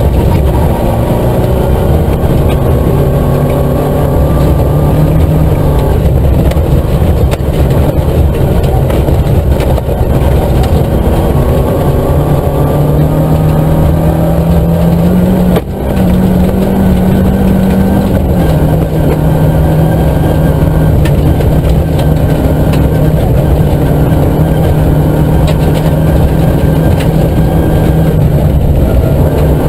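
Nissan Micra K11 rally car's four-cylinder engine pulling hard at high revs, heard inside the stripped cabin, over the noise of tyres on a gravel road. The engine note climbs steadily, breaks briefly about halfway through as the driver lifts or changes gear, then settles back and climbs again.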